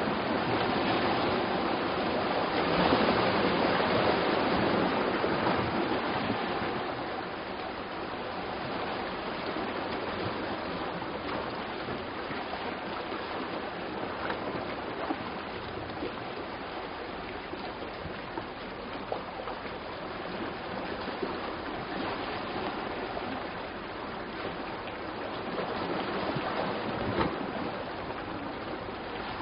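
Sea surf washing on a rocky shore: a steady rush of water that swells louder over the first few seconds and again near the end.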